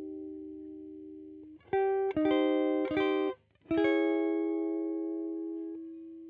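Squier Vintage Modified Jaguar electric guitar playing chords. A ringing chord fades out, then a quick run of strummed chords starts a little under two seconds in. After a brief stop, one chord is struck and left to ring out.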